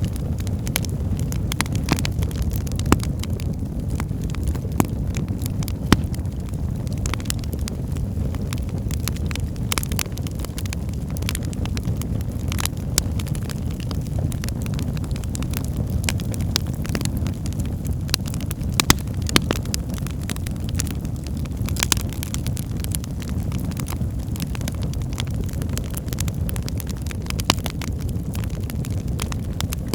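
Wood fire burning in a fireplace: a steady low rumble of flames with frequent sharp crackles and pops, and a handful of louder snaps scattered through.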